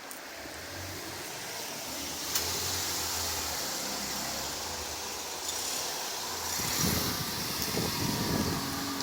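A car passing on a street: a low engine hum builds, joined by tyre hiss, and grows louder again near the end.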